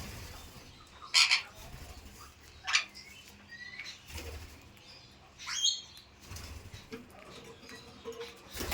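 Pet parrot giving three short, harsh squawks, about a second, nearly three seconds and five and a half seconds in, the first the loudest, with quieter chirps between them.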